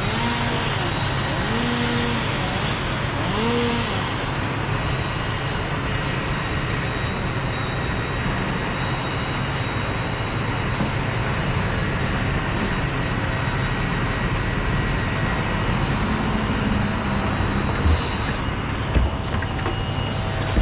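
An engine running steadily, with two short thumps near the end.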